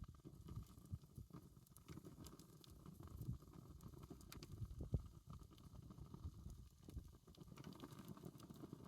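Wood campfire burning quietly, with scattered faint crackles and small pops over a low rumble.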